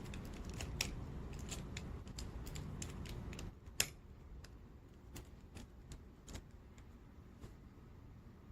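Plastic gel pen caps being snapped onto the backs of the pens, with the pens handled: a run of small clicks and taps, the sharpest about four seconds in, then fewer and fainter.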